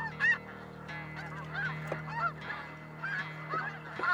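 A flock of snow geese calling, many short arched honks overlapping continuously, over a steady low hum.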